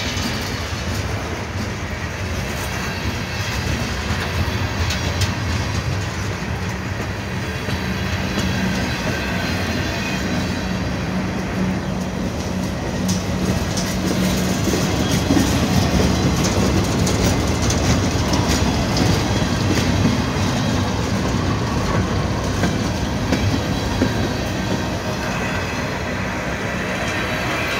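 CSX manifest freight cars rolling past close by: a steady rumble of steel wheels on rail, with scattered clicks as the wheels cross rail joints.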